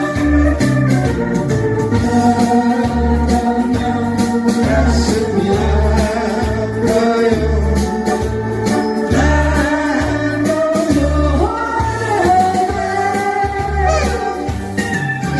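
Electronic organ playing a trot dance tune live, with held chords and a melody over a steady, repeating bass beat.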